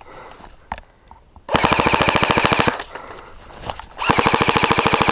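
Airsoft gun firing two full-auto bursts, each a rapid, even rattle of roughly twenty shots a second. The first starts about a second and a half in and lasts just over a second; the second starts about four seconds in and is still going at the end.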